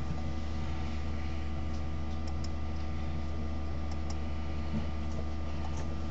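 Steady low electrical hum with a few faint clicks a couple of seconds in and again near the end.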